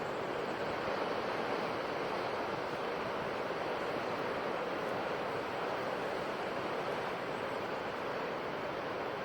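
Ocean waves washing on a shore, a steady rush of surf that swells gently and never breaks off.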